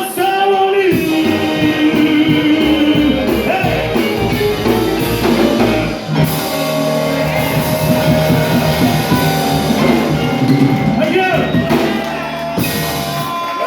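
Live rockabilly band playing the closing bars of a song: drum kit and guitar with held, bending sung or played notes.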